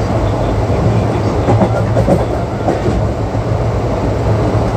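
ICF passenger coach of an Indian express train running at speed: a steady rumble of wheels on track, with a quick run of clacks over rail joints about halfway through.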